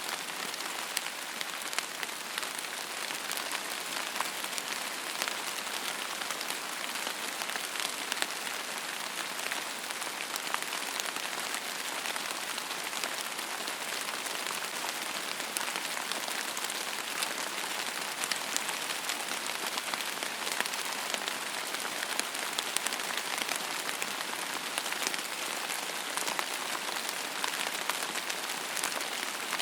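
Steady rain falling on a hard surface, a dense hiss full of individual drop ticks.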